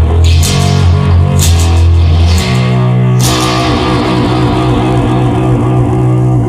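Instrumental rock music: guitars over a heavy bass line, with cymbal crashes about half a second, a second and a half, and three seconds in.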